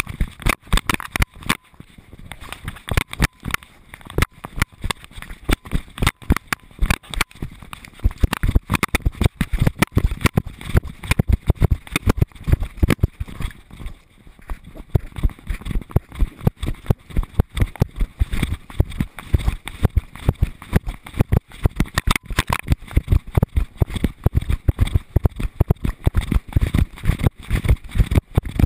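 A GoPro in a dog harness mount knocking and rattling with every stride as the dog moves, several sharp thumps a second, with the dog's footfalls on the dirt trail mixed in.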